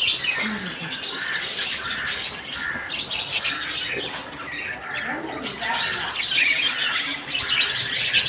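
Small pet parrots chattering and squawking together in a dense, continuous stream of chirps.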